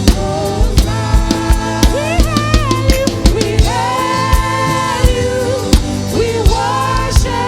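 Gospel worship song: a voice singing long held notes over a band with a steady drum-kit beat.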